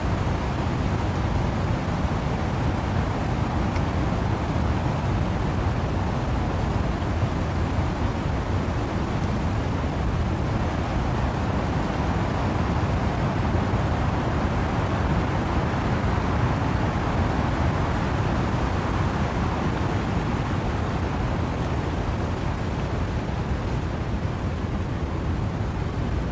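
Steady wind-driven rain with wind through trees: an even, unbroken rushing, heaviest in the low range, with no separate drops or gusts standing out.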